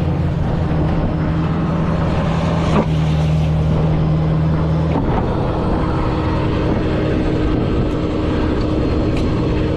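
Vehicle engine running steadily, most likely the tow truck's. Its tone shifts about five seconds in, and there is a single knock a little before three seconds.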